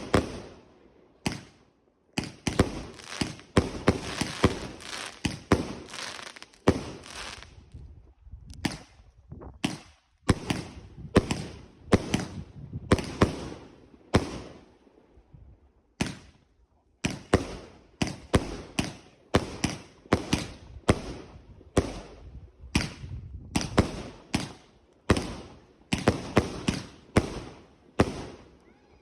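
Fireworks going off in rapid runs of sharp bangs, several a second, with a couple of short lulls between volleys.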